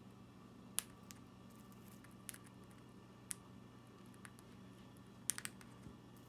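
Conure's beak cracking millet seeds: small, sharp clicks at irregular intervals, roughly one a second, with a quick run of three about five seconds in.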